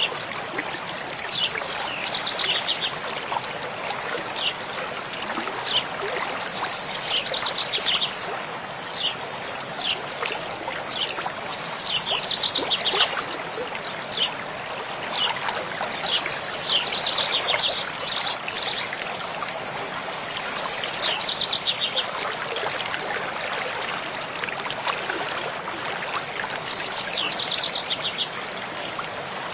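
Mountain stream flowing steadily, with a songbird singing short, quick trilled phrases every few seconds over the water.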